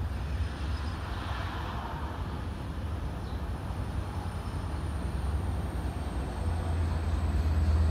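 Long Island Rail Road locomotive-hauled train approaching: a low rumble that grows louder over the last second or so as it nears.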